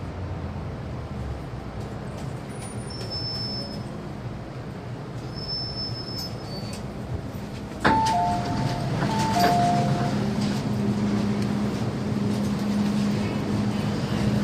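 MTR M-Train standing at a platform with steady train noise, then about eight seconds in a sudden clunk and a two-tone door chime, high then low, sounded twice, after which a low hum from the train grows.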